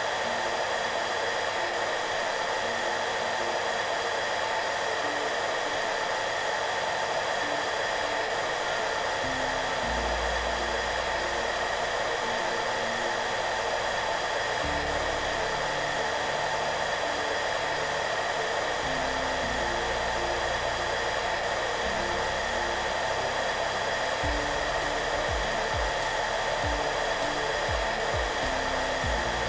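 Hair dryer running steadily with an even hiss and a faint steady whine. Soft low background music notes come in under it about a third of the way through.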